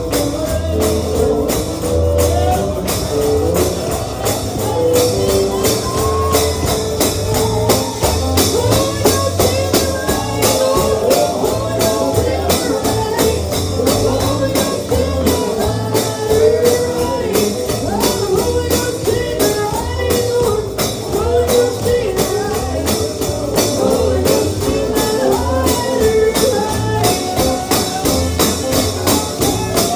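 Holiness bluegrass gospel song: a tambourine keeps a steady beat under singing, guitar and bass.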